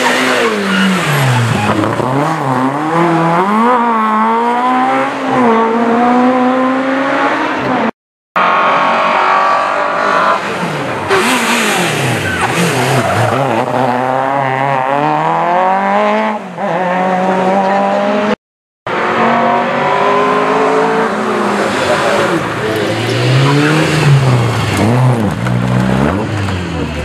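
Rally car engines revving hard, the pitch climbing and falling again and again through gear changes and lifts. The sound comes as three stretches broken by two brief gaps of silence.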